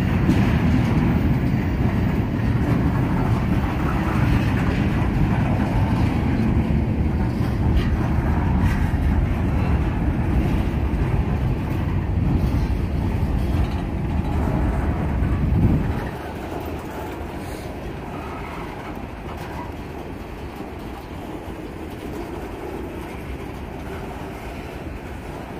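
Freight train rolling past close by: a heavy, steady low rumble of wheels on rail that drops off suddenly about sixteen seconds in, leaving the quieter steady rolling noise of the boxcars going by.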